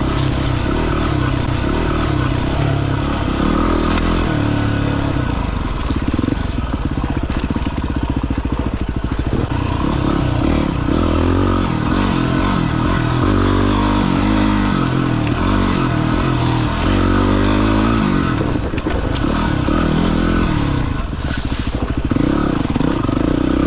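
Dirt bike engine being ridden, its pitch rising and falling over and over as the throttle is opened and closed.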